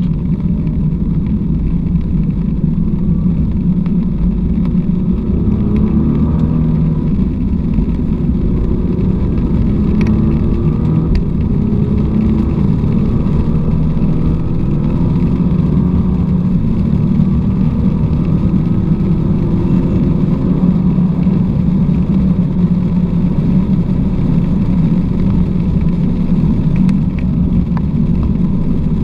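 Car engine running at speed under a heavy, steady low rumble, its pitch repeatedly rising as it accelerates and dropping back between runs.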